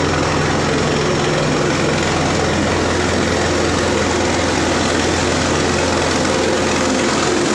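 Helicopter running close by: a steady, loud rush of noise with a low hum under it, the hum dropping away just before the end.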